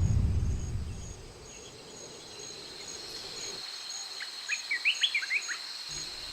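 Forest ambience: a steady insect trill with a faint, regularly repeating chirp above it, and a bird giving a quick run of chirps about four to five seconds in. A low rumble fades out during the first second.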